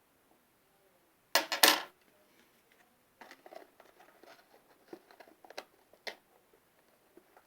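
A brief clatter of hard clicks about a second and a half in, followed by scattered light taps and clicks from small objects being handled.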